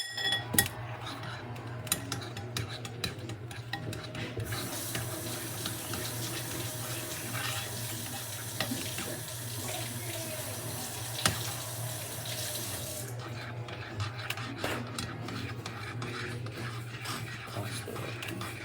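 A spoon clinking and scraping in a bowl as a slime mixture is stirred, with water running steadily for about eight seconds in the middle, starting and stopping abruptly. A steady low hum underlies it.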